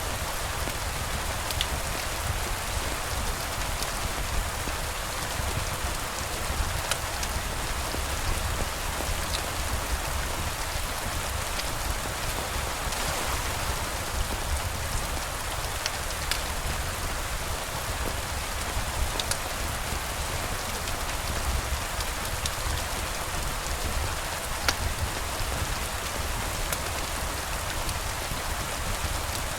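Steady rain falling: a continuous hiss with a low rumble underneath and scattered sharp clicks.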